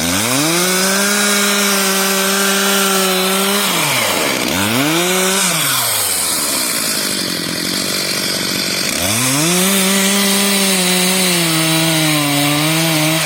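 Two-stroke chainsaw cutting into wood at full throttle: a long cut of about three and a half seconds, a short blip of the throttle, a few seconds at idle, then a second cut from about nine seconds in, with the engine pulling down slightly under load near the end. This is the notch cut being made in a tree before felling.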